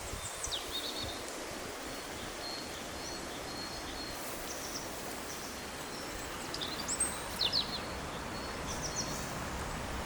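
Outdoor ambience of small birds giving short, high chirps and calls on and off over a steady background hiss.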